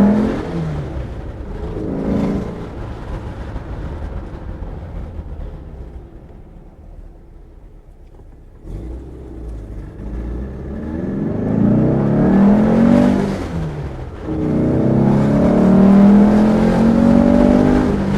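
Porsche 912's 2.1 liter flat-four engine under way, with a short rev blip about two seconds in. The engine quiets for a few seconds, then pulls hard with rising revs, dips briefly near the middle of the surge, and climbs again.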